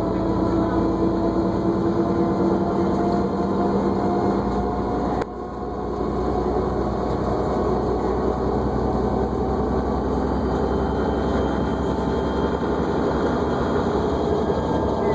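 New Flyer D40LFR diesel transit bus heard from inside while underway: a steady engine drone with a whine over it. About five seconds in there is a sharp click and a brief dip in level, then the running noise carries on.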